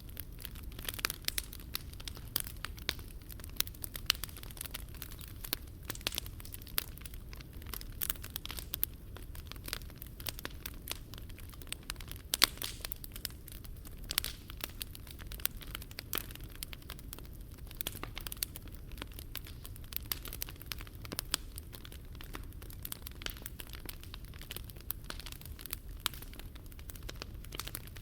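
Wood fire burning in a Picogrill fire pit, crackling with many small irregular pops and snaps over a low steady rumble.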